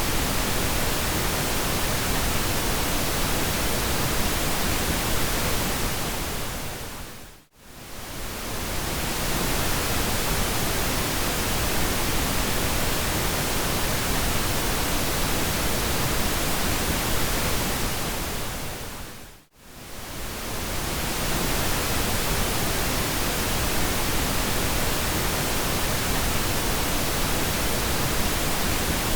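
Steady pink noise: an even, full hiss. Twice, about seven and nineteen seconds in, it fades down to a brief silence and swells back up.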